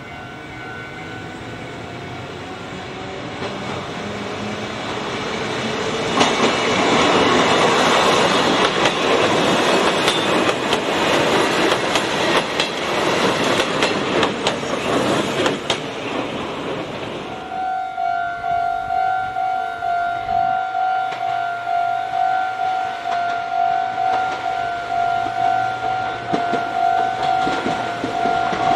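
A red Meitetsu Seto Line electric train approaching and passing close by, its wheels clattering over the rail joints, loudest in the middle. Then a railway level-crossing warning bell rings steadily with a quick, even two-tone clang, while another train draws near at the end.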